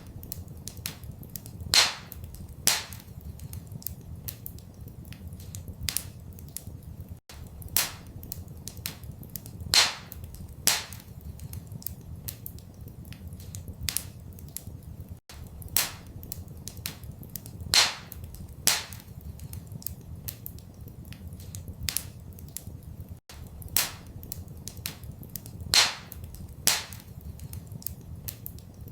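Wood fire crackling in a fireplace, with sharp pops and snaps over a low, steady rumble. The same pattern of pops repeats about every eight seconds.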